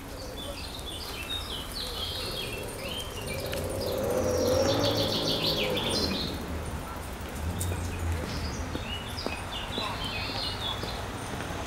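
Small birds chirping in short, quick high notes, scattered throughout, over a steady low background rumble. Around the middle a louder droning sound swells and fades.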